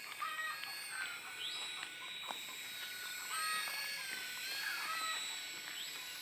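Toy remote-control helicopter's small electric motor and rotor whining in flight, its pitch wavering, with birds chirping around it.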